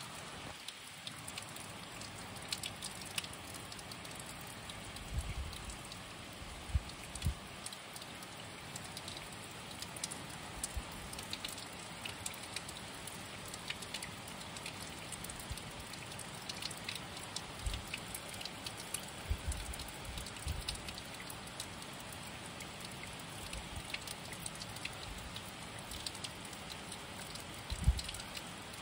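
Steady rain falling: an even hiss with many scattered drip taps. A few brief low thumps come now and then, the loudest about seven seconds in and near the end.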